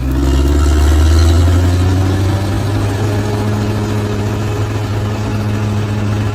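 Large bulldozer's diesel engine running, swelling louder in the first two seconds, then settling into a steady run.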